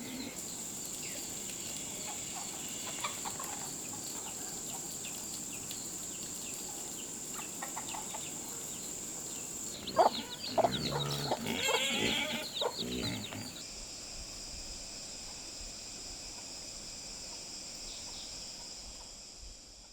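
Domestic chickens clucking, loudest in a burst of calls a little past halfway, over a steady high-pitched drone that drops in pitch shortly after. The sound fades out at the end.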